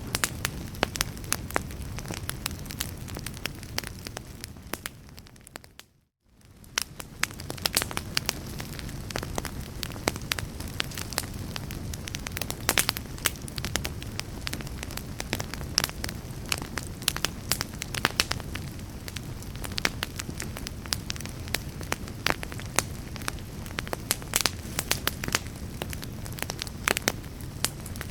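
Fire in a fireplace crackling steadily: a soft low rumble under many sharp pops and snaps. About six seconds in, the sound fades away to a moment of silence, then fades back in.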